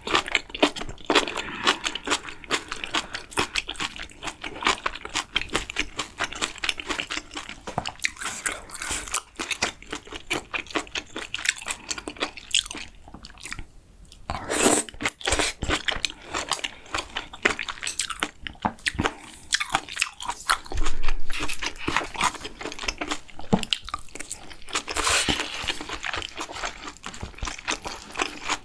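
Close-miked chewing of food: a steady run of short mouth clicks and bites, with louder moments about halfway through and again near the end.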